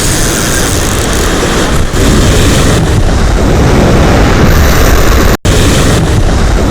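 Heavy wind rumble on the microphone, mixed with the wash of surf on a rocky shore, loud and steady. It cuts out for an instant a little past five seconds.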